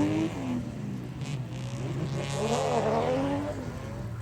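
A drift car's engine revving, its pitch swinging up and down about two to three seconds in, over a steady lower engine drone.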